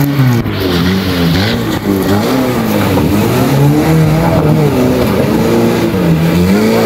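Off-road Maruti Gypsy's engine revving hard in repeated bursts, its pitch rising and falling about once a second as it drives through a muddy water splash and climbs out.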